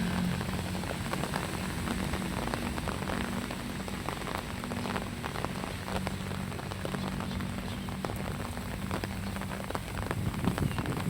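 Rain pattering steadily, with many individual drops ticking close by, over a low steady hum.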